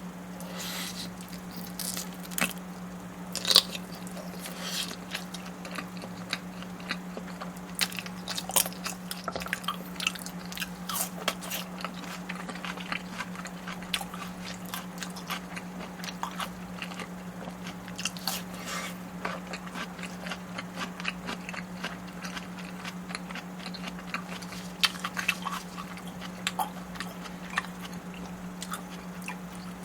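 Close-miked eating sounds: a person chewing and biting, with many short sharp clicks and crunches, over a steady low hum.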